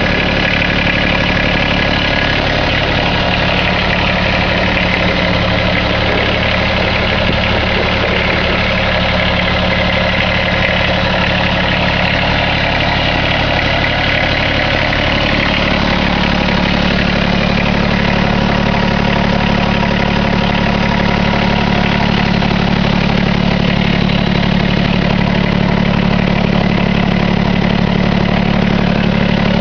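Kubota BX25D compact tractor's three-cylinder diesel engine running steadily at idle, its low note getting stronger about halfway through.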